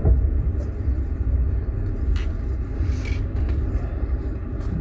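Steady low rumble of a passenger train running on the rails, heard from inside a sleeper carriage, with a couple of brief higher rattles about two and three seconds in.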